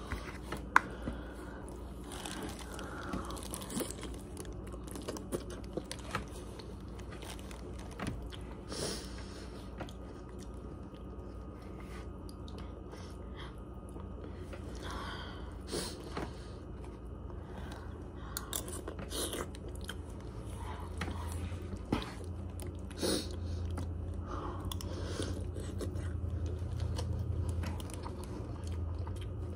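Close-up sounds of a person eating Chinese food (rice, chicken and vegetables) with a metal fork: chewing and biting, with occasional clicks of the fork against the plate. A low steady hum comes in about two-thirds of the way through.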